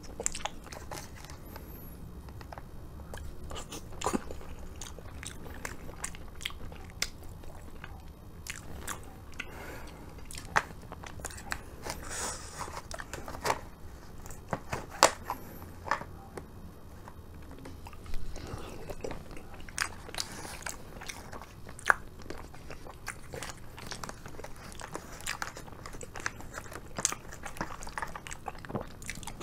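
Close-miked chewing and biting of food, with wet mouth sounds and many short clicks and taps as a spoon works in a plastic takeaway bento tray.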